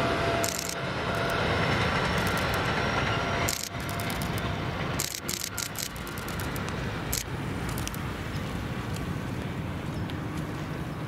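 A train running by: a steady rumble with scattered sharp clicks, easing off after a few seconds.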